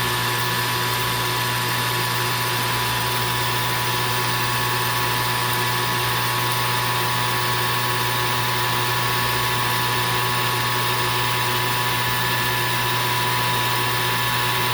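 Metal lathe running at about 1,000 RPM while taking a power-fed cut on aluminium bar stock: a steady hum with a constant whine from the machine. It does not change through the whole stretch.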